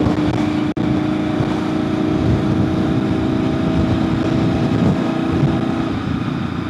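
2001 Honda VFR800FI's V4 engine running at steady revs under a heavy rush of wind noise while riding. The sound cuts out for an instant under a second in, and the steady engine note eases near the end.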